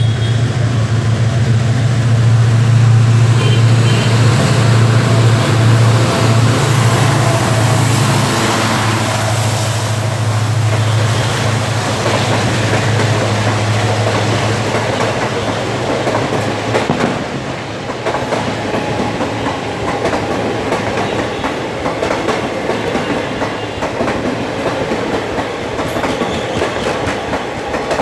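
WDP4 diesel locomotive passing at speed, its deep engine drone strong for the first fifteen seconds or so and then fading, followed by the steady clatter of the passenger coaches' wheels running over the rails.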